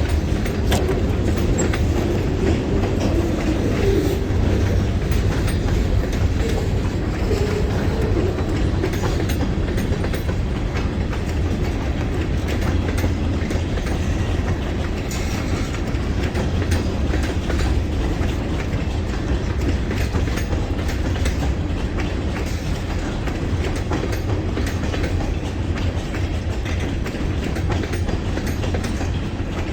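Freight cars of a long train rolling past: a steady low rumble with the wheels clicking over the rail joints. A faint wavering squeal sits under it for the first several seconds.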